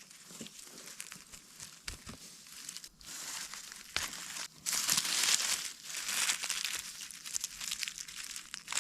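Crackling rustle of dry leaves and forest-floor litter being disturbed, many small crinkles and snaps, loudest about halfway through.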